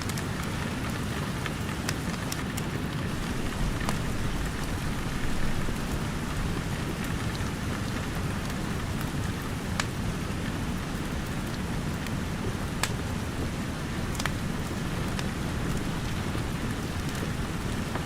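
Steady rain over a low rumble, with scattered sharp crackles and pops from a wood fire.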